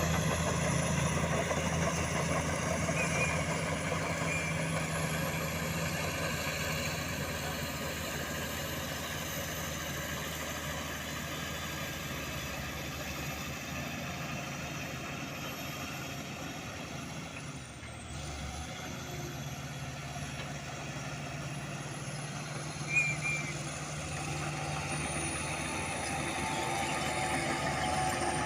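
Diesel dump truck engine running steadily at low revs, with one short sharp sound about two-thirds of the way through.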